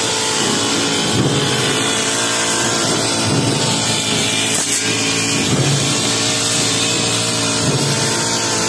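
Honda four-stroke brush cutter running fast with a metal grass blade, its engine note swelling about every two seconds as the blade sweeps through the grass.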